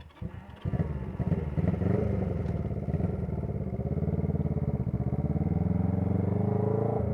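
Honda CB125T's air-cooled parallel-twin engine with a noisy muffler starting up, catching about half a second in and then running steadily with small changes in pitch.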